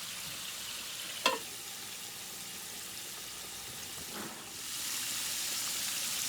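Apples frying in butter and vegetable oil in a skillet, a steady sizzle. There is a single sharp clink about a second in, and the sizzle grows louder near the end.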